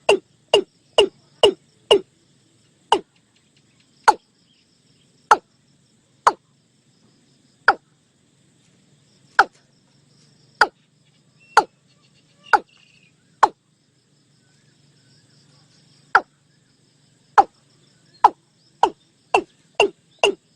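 Watercock calling: a series of short, sharp notes, about two a second at first, slowing to widely spaced single notes, then quickening again near the end.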